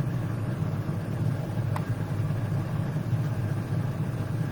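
Steady low rumble, even throughout, with one faint click about two seconds in.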